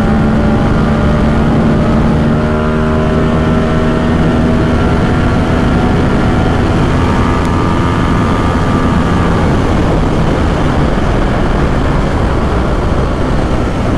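Ducati Supersport 950 S's 937 cc L-twin engine running at speed through an aftermarket exhaust, its pitch creeping slowly upward. Wind rush grows over it during the second half, as the engine note fades a little.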